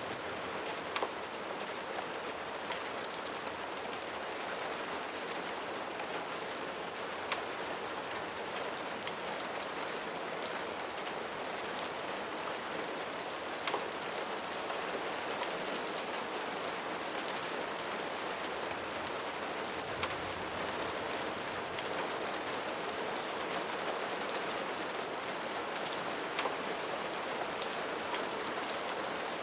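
Steady rain falling on a surface, an even hiss with occasional sharp ticks a few seconds apart.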